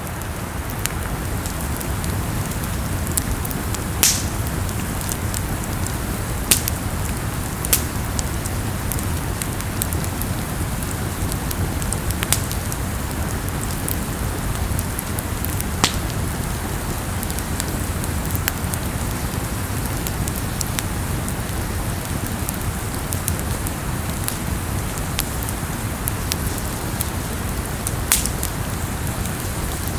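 Campfire burning with a steady crackling hiss and low rumble, and a sharp pop every few seconds.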